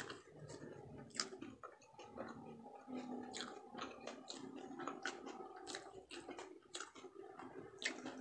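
Close-up chewing of food, with irregular sharp mouth clicks and smacks.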